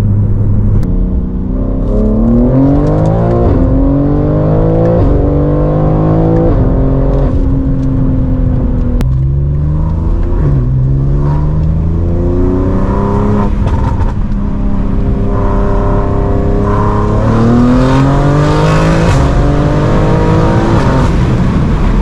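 BMW G80 M3's S58 twin-turbo straight-six, with catless downpipes and a valved equal-length exhaust, accelerating hard through the gears. The exhaust note climbs in pitch and drops back at each upshift, several times over.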